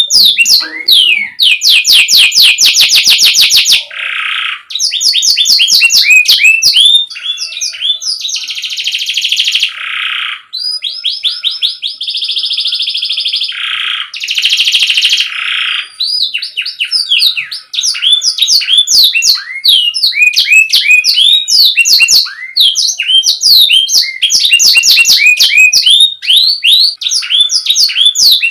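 Domestic canary singing a long, continuous song: fast series of repeated sweeping chirps alternating with rapid trills and several held rolling tours in the middle, loud and close.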